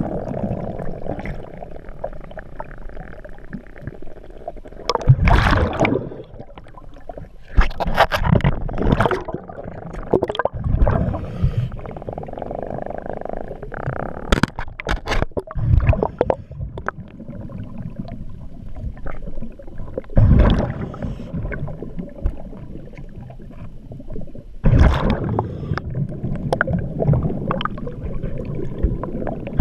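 A scuba diver breathing underwater through a regulator: gurgling bursts of exhaled bubbles every few seconds, with quieter stretches between.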